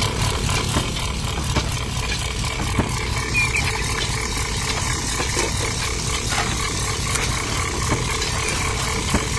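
Small motor running steadily, with scattered light clicks.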